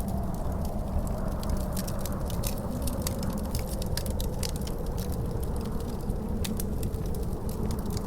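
Wood fire crackling in a fireplace, with frequent sharp irregular pops, over a steady low rumble of wind.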